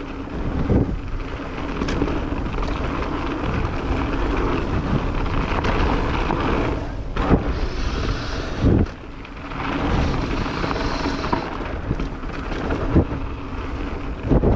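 Mountain bike riding down a dirt trail: continuous wind noise on the microphone and tyre rumble, with sharp clunks of the bike over bumps several times.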